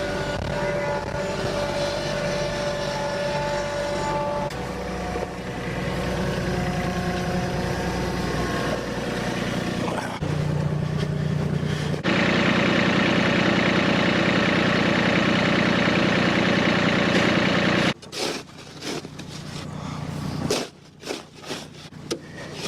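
Compact diesel tractor engine running steadily while working snow, its note shifting abruptly several times. In the last few seconds the engine fades and a run of irregular knocks and rumbles takes over.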